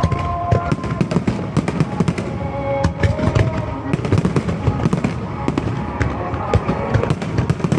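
Fireworks going off in quick succession: a dense, continuous run of bangs and crackles with no pause.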